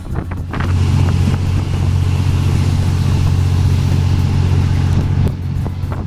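Train running with a loud, steady low drone and a rushing noise, which swells about half a second in and drops back after about five seconds.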